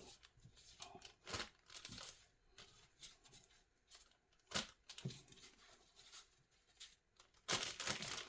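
Intermittent crinkling and rustling of a plastic zip-top bag and paper towels as raw chicken wings are handled and dropped into the bag. The handling gets louder near the end.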